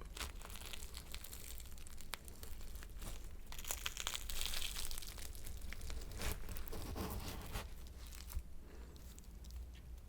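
Flaky croissant being torn apart by hand, its crisp pastry layers crackling and crunching, loudest about four to five seconds in before tapering off.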